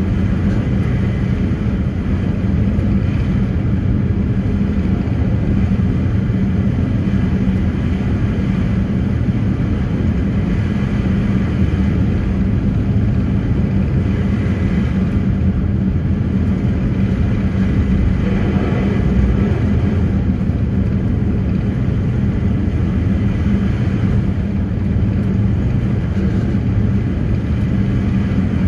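A passenger ferry's engines running under way, a steady low drone that holds at one level throughout.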